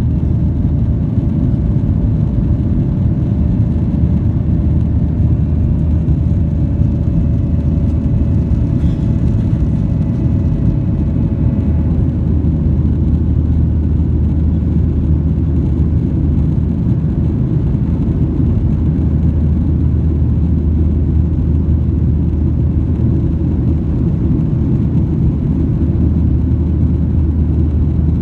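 Steady, loud cabin rumble of a Boeing 737-800 in flight, heard inside the cabin: its CFM56-7B engines and airflow. A faint higher hum rides on it and fades out about twelve seconds in.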